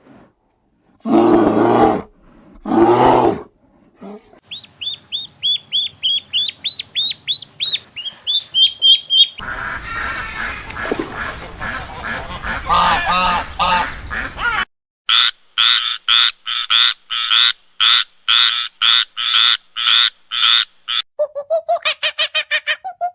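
A sequence of different animal calls: two long roars at the start, then fast high-pitched chirping, a noisy stretch with calls, a run of evenly spaced calls about twice a second, and near the end a faster string of high calls.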